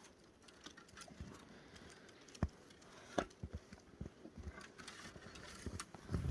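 Scattered sharp cracks and soft knocks, two louder ones about two and a half and three seconds in, then a run of smaller ones: tiger cubs tearing at and chewing a birch tree.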